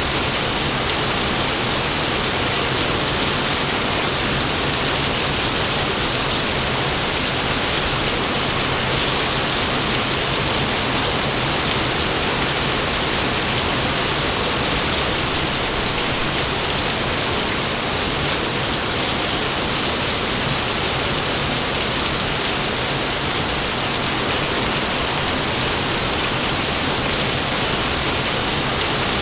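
Heavy rain pouring steadily, an even, unbroken hiss with no thunderclaps.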